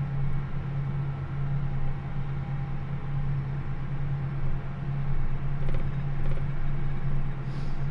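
John Deere 8400R tractor's diesel engine running at a steady pitch while driving, a constant low drone.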